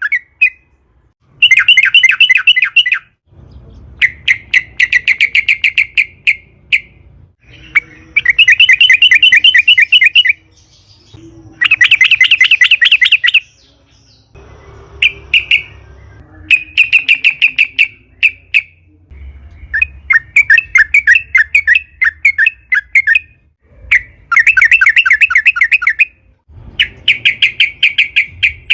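Yellow-vented bulbul (trucukan) song: long runs of rapid, bubbling notes, each run lasting about two seconds, repeated about ten times with short pauses between.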